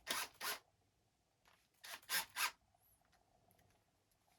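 Five short scraping strokes, two at the start and three more about two seconds in, as parts of an RC truck are rubbed and handled while being fitted.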